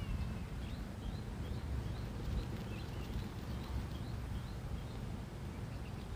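A bird repeats a short, high chirp about twice a second over a low rumble of wind on the microphone.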